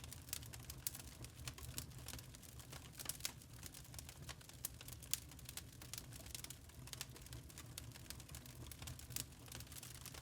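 Wood fire burning in a fireplace, crackling with many small sharp pops over a low rumble of the flames.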